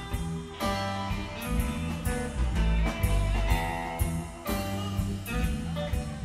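Live blues-rock band playing an instrumental jam without vocals: guitar lines over bass and a drum kit keeping a steady beat.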